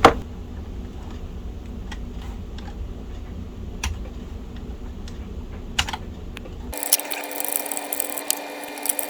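Screwdriver and small metal parts being worked on a laptop's chassis: scattered single clicks and taps, then from about seven seconds in a quick run of ratchet-like clicking.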